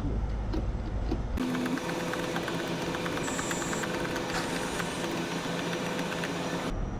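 A concrete mixer truck's powered tilt hood lifting. The lift mechanism starts suddenly about a second in and runs steadily with a rapid mechanical ticking, then stops shortly before the end, over a low engine rumble at the start.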